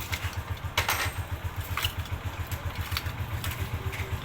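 Kawasaki Barako's single-cylinder four-stroke engine idling steadily with an even, quick low thump, freshly rebuilt after a top and side overhaul. A few sharp clicks sound over it, the loudest about a second in.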